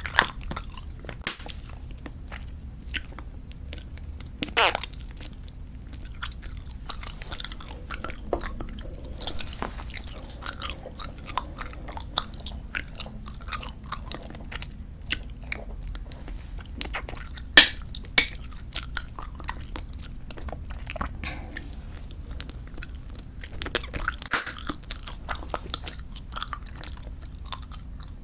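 Close-miked chewing of squeeze-tube bubblegum: wet, sticky clicks and smacks at an uneven pace, with a few louder sharp snaps, the loudest two close together a little past halfway.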